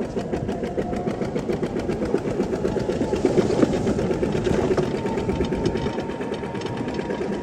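Small engine running steadily with a rapid, even chugging beat.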